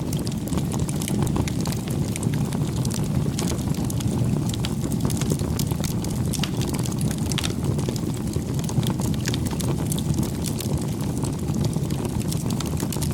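Campfire burning, with a steady low rush and frequent sharp crackles and pops scattered throughout.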